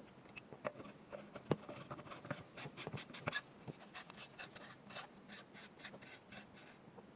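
Irregular clicks, light taps and scraping of small rifle parts being handled and fitted by hand during assembly of an airsoft gas-blowback rifle.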